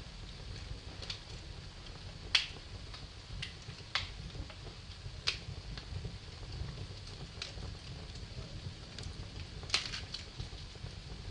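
Wood fire burning in a fireplace: a low steady rumble of the flames with irregular sharp crackles and pops, four louder pops standing out.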